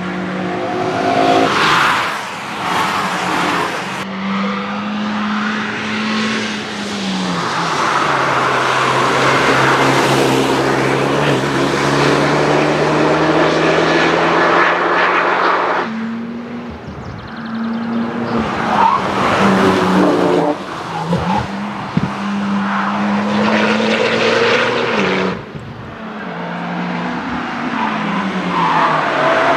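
Several cars driven hard on a race track in turn: engines revving up and dropping back through gear changes, with tyre squeal from cars sliding through corners. The sound changes abruptly a few times as one car gives way to another.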